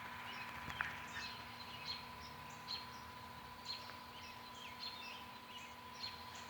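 Distant songbirds chirping in a chorus: many short, high, faint notes and trills repeating every half second or so.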